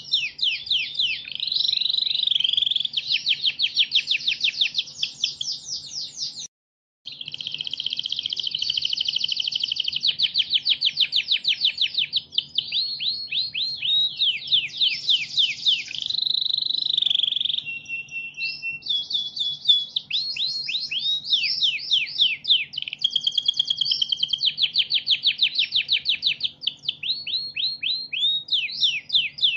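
Domestic canary singing a long, unbroken song of fast trills: runs of rapidly repeated sweeping notes that switch to a new phrase every second or two. The song cuts out completely for about half a second, six and a half seconds in, then carries on, over a faint steady low hum.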